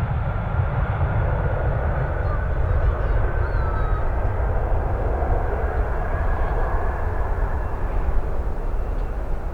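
Boeing 767-300ER jet airliner taking off, its engines running at high thrust as a steady loud noise with a faint high whine that dips slightly in pitch a few seconds in. Strong wind rumbles on the microphone underneath.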